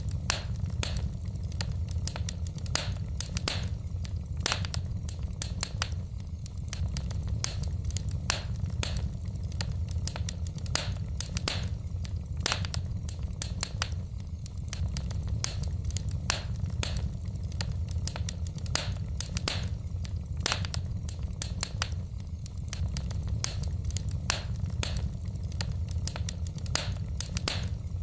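Wood logs burning in a fireplace, crackling and popping irregularly, several sharp snaps a second, over a steady low rumble.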